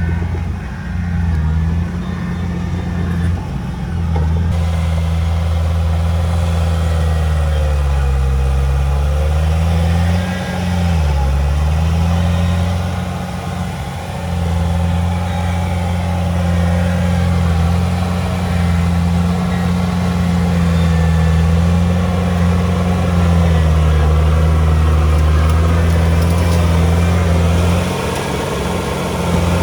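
Heavy-equipment diesel engine running steadily under work, its pitch sagging and recovering briefly about eight and eleven seconds in.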